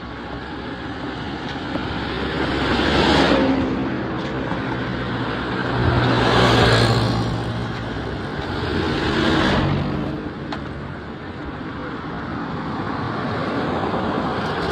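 Road traffic: motor vehicles driving past one after another, each swelling and fading, three clear pass-bys about three seconds apart over a steady background of engine noise.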